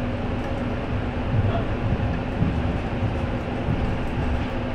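Steady rumble of a train running along the track, heard from on board, with a faint steady hum.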